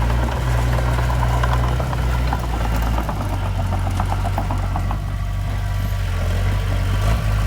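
Heavy diesel engine of earthmoving equipment running steadily, its pitch shifting about three seconds in, with a light rapid clatter over it for the first few seconds.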